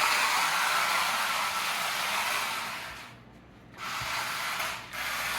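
RC drift car running: a steady whirring rush from its electric motor and its hard tyres sliding on the floor as it drifts. The sound cuts out for about a second around three seconds in and dips briefly again near five seconds.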